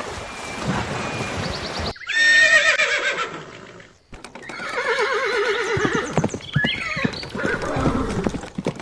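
Horse whinnying: a loud, quavering call that falls in pitch about two seconds in, then a second long whinny a couple of seconds later.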